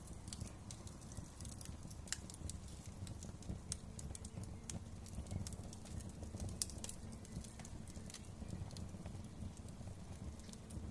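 Wood fire crackling in a fireplace: irregular sharp snaps and pops, several a second, over a steady low rumble of burning.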